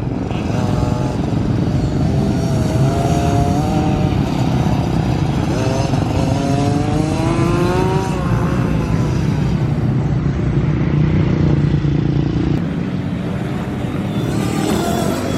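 Dirt bike engines revving up and down on a motocross track, their pitch rising and falling as the throttle opens and closes, over a steady low rumble.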